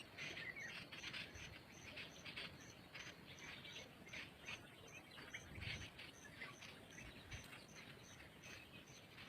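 Faint outdoor nature sound: an insect chirping steadily about twice a second, with scattered short bird chirps.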